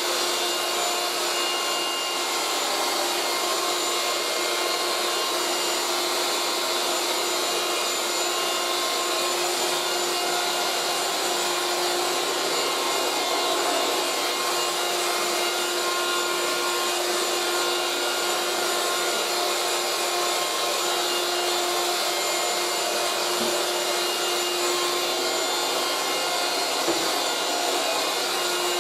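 1980s Moulinex 237/320 handheld vacuum cleaner running steadily with its upholstery tool fitted, a constant motor whine over the rush of air, with weak suction. A faint knock or two comes near the end.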